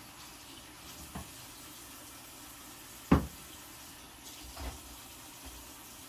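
Three knocks against a faint steady hiss: a light one about a second in, a sharp loud one about three seconds in, and a softer one about a second and a half later.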